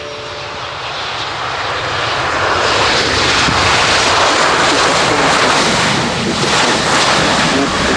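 Boeing 737-800 jet airliner passing close, its CFM56-7B turbofan engines swelling to a loud, steady roar and hiss over the first few seconds.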